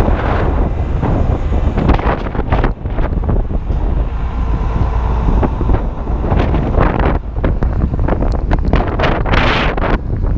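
Strong wind buffeting the microphone of a GoPro Hero 2 camera: a loud, continuous low rumble, with scattered short knocks.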